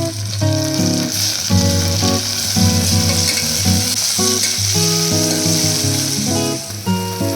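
Food sizzling as it fries in hot oil, a steady hiss, with background music playing over it.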